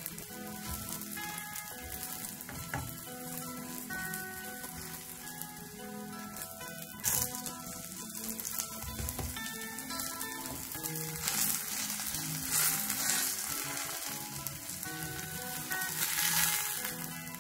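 Potato and egg pancake sizzling as it fries in oil in a pan, the sizzle swelling louder twice in the second half, with one sharp knock about seven seconds in.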